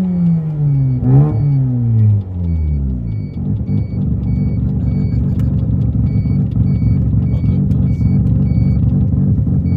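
Mazda RX-7 FC3S's naturally aspirated, half-bridge-ported 13B rotary engine dropping off from revs, with a quick throttle blip about a second in, then settling into a lumpy, choppy idle. A faint beep repeats about twice a second over the idle.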